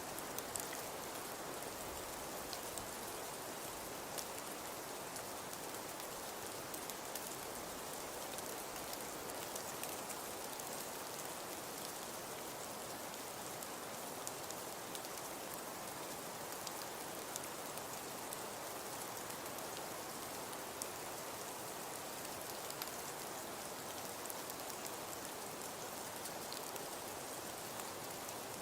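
Fireplace fire crackling softly: a steady hiss with scattered small crackles and pops.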